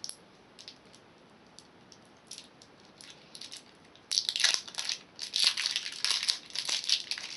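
A Laffy Taffy candy wrapper crinkling and crackling as the sticky taffy is peeled out of it: a few faint rustles at first, then steady loud crinkling from about four seconds in.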